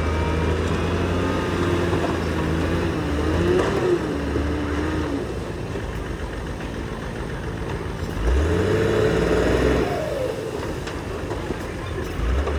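Diesel engine of heavy earthmoving machinery running under load, with a wavering whine over it in the first few seconds. The engine revs up about eight seconds in.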